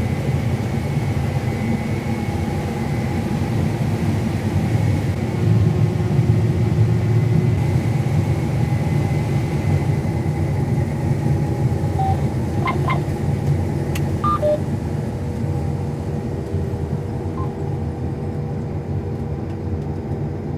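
Combine harvester running steadily while picking corn, a dense low machine drone with a steady hum. A few brief tones sound about two-thirds of the way through.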